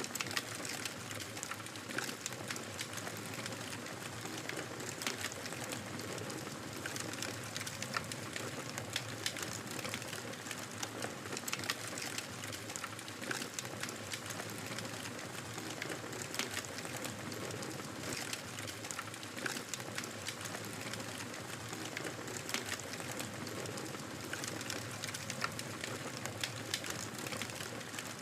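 Wood fire crackling in a fireplace: a steady hiss of burning with irregular sharp crackles and pops scattered all through.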